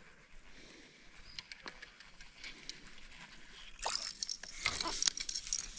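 A fishing lure being retrieved across the water surface, with light patter and small clicks, then a louder spell of splashing about four seconds in.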